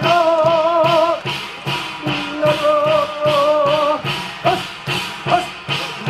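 Korean shamanic ritual (gut) music: a steady percussion beat of about two and a half strokes a second, with a wavering melody line holding two long notes over it.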